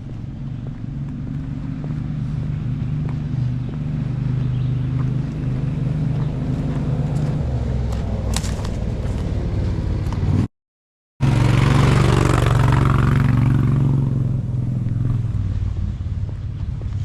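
A motor engine running steadily close by, growing louder over the first few seconds. The sound cuts out completely for a moment about ten seconds in.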